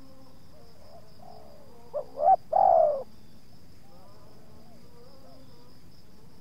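Spotted dove cooing: one loud three-part coo about two seconds in, with fainter coos around it. A steady high insect trill runs underneath.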